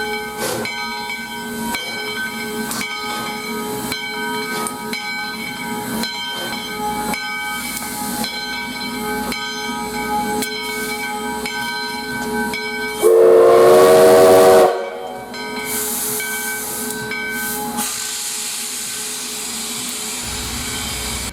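Standing steam locomotive, US Sugar #148 (a 2-8-0), hissing steadily with a faint beat about once a second. About 13 seconds in, its whistle gives one blast of about a second and a half.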